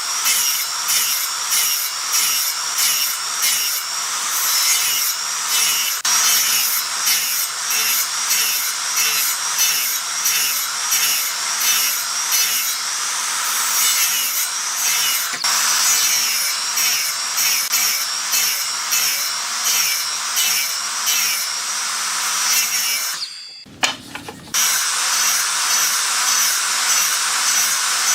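A hand tool worked back and forth on wood in even strokes, about two a second, over a steady low hum; the strokes break off briefly near the end, then resume.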